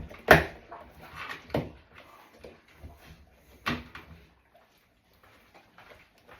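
A few sharp household knocks and clunks, three louder ones in the first four seconds, then fainter handling sounds.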